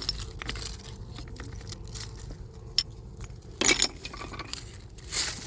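Small objects clinking and tapping as they are handled, a scatter of short clicks, with a louder clatter between three and four seconds in.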